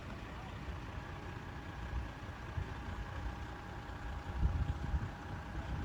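A vehicle engine idling steadily. A low rumble swells louder about four and a half seconds in.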